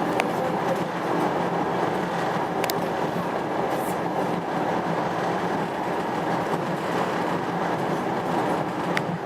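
Passenger train running with a steady rumble, with a few faint clicks from the wheels or carriage.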